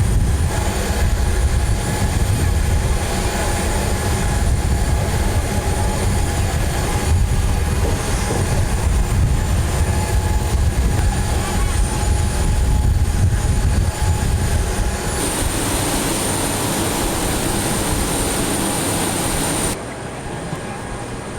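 Loud, steady low rumble of heavy engines running, with a faint steady whine above it. The sound shifts abruptly about 15 seconds in and drops away near the end.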